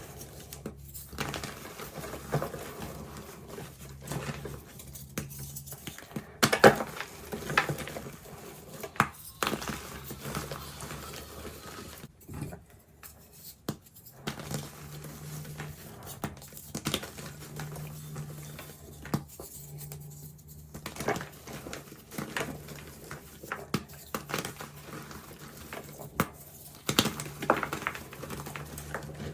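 Reformed gym chalk, pressed back into soft blocks, crunching and crumbling as it is crushed by hand, in a run of irregular crackles and crunches.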